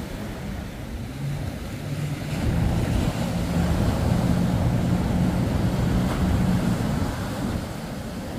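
An engine's drone that swells about two seconds in and eases off near the end, over breaking surf and wind noise on the microphone.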